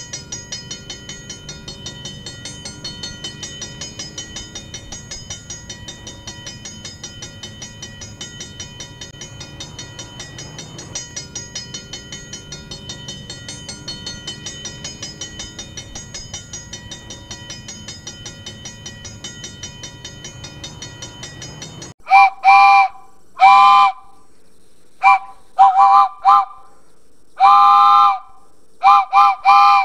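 A train running with a fast, even rhythmic pulse under a steady hum. About 22 seconds in, its whistle sounds in a run of loud blasts, some short and some longer, each a chord of several pitches.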